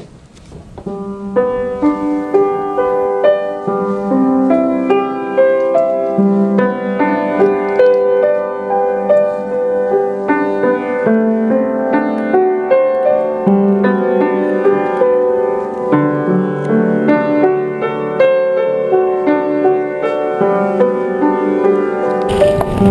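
Gentle solo piano music playing at an even pace. A rush of noise cuts in just before the end.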